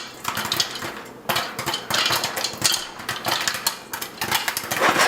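A pot of popcorn kernels in hot oil being shaken on an electric stove burner: the pot scrapes on the burner and the glass lid and kernels rattle in a run of short clattering strokes, louder near the end.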